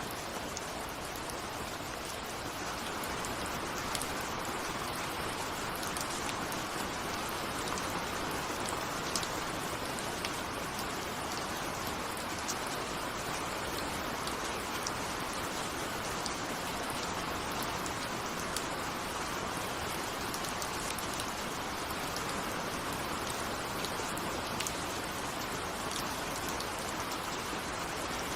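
Steady rain falling, a dense even hiss with many small drop ticks, raindrops hitting a window.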